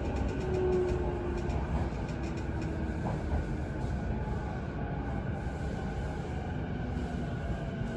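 Running noise heard inside an electric commuter train carriage: a steady rumble of wheels on the rails, with a faint motor whine that falls in pitch as the train slows toward its next stop.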